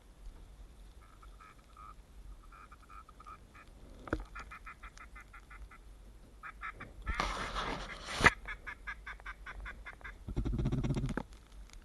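Duck quacking in rapid runs of short quacks, faint at first and louder and lower toward the end. A brief noisy burst about seven seconds in is followed by one sharp click.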